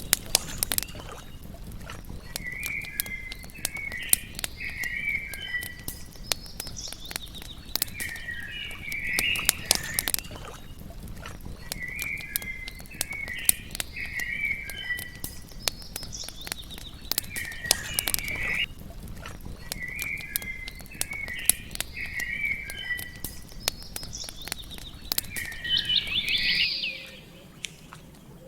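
Campfire crackling with frequent sharp pops, while a songbird sings the same short warbled phrase about every four seconds. Near the end a different, higher bird call sounds and the crackling drops away.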